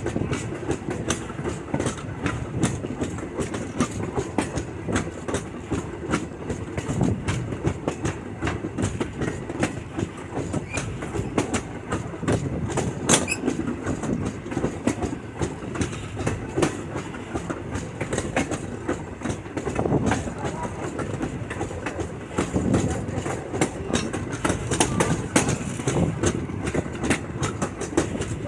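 Wheels of a passenger railroad car rolling along the track: a steady rumble with clickety-clack and scattered sharp clicks, one standing out about halfway through.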